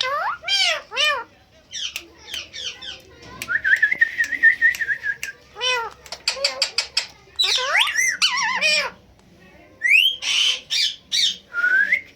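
Indian ringneck parakeets calling: a run of short squawks and chirps that swoop up and down in pitch, with one long, steady whistled note in the middle.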